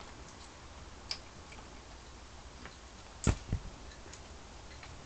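Scattered faint clicks and taps at uneven intervals, with a sharper double knock about three and a half seconds in.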